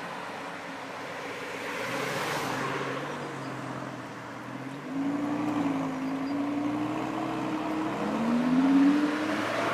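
Lamborghini Gallardo LP560-4 Spyder's V10 engine running, growing louder about five seconds in and holding a steady note, then revving up near the end and easing back.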